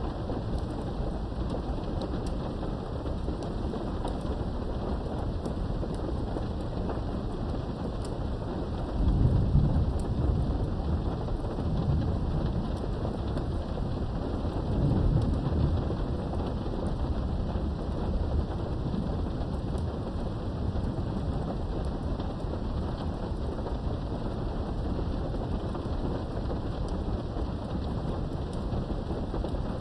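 Steady rain heard from behind a window, with thunder rumbling twice: a louder rumble about nine seconds in that fades over a few seconds, and a smaller one a few seconds later.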